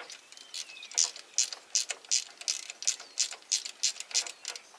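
Hand ratchet wrench clicking in quick short bursts, about five a second, starting about a second in, as bolts are turned out of the front of a Ford 302 V8 during teardown.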